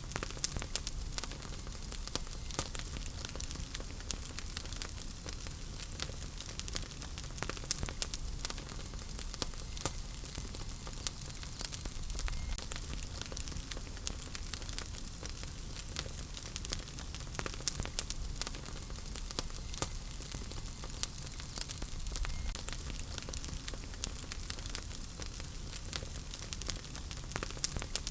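Wood fire burning in a fireplace: a steady low rumble and hiss with frequent sharp crackles and pops.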